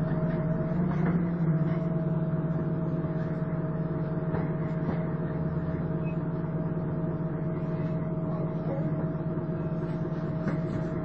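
Volvo Olympian double-decker bus running steadily, with a constant vacuum-cleaner-like whine (the "hoover" sound) over a steady low drone.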